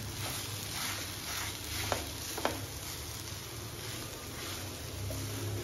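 Grated beetroot, onion and boiled potato frying in oil in a nonstick pan with a soft, steady sizzle, while a spatula stirs and scrapes through the mixture, knocking lightly against the pan a few times in the first half.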